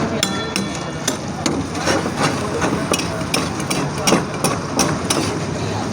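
Repeated sharp, irregular knocks of cooking work at a karahi stall, over a steady low hum. A brief high steady tone sounds in the first second.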